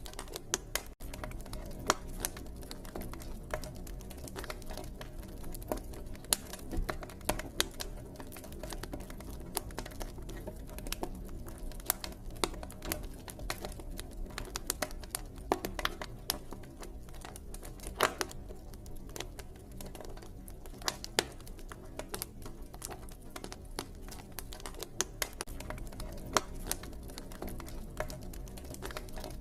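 Campfire crackling: irregular sharp pops and snaps, several a second, some louder than others, over a low steady background.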